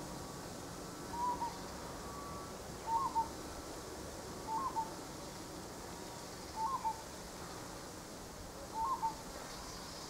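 A bird calling: a short whistled note that bends up and down, repeated five times about every two seconds.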